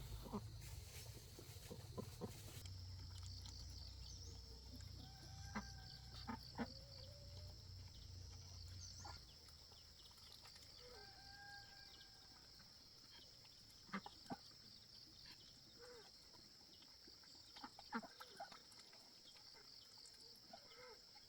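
Chickens clucking faintly now and then, with a few short held calls and scattered sharp clicks.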